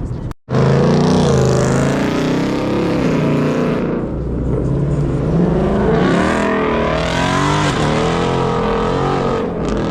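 Car engine revving, its pitch rising and falling again and again, loud; the sound briefly drops out about half a second in.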